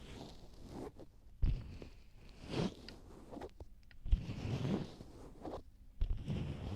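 Hands rubbing and stroking over an ASMR microphone's ears in an ear massage: repeated rubbing strokes about every second and a half, each starting with a soft bump close on the microphone.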